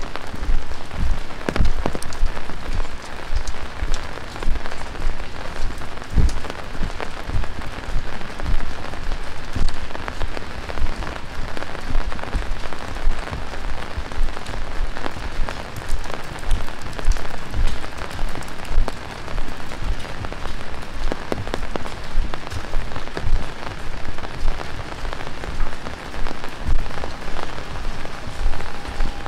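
Heavy rain falling steadily, with a dense spatter of many close, sharp drop hits over the rush of the downpour.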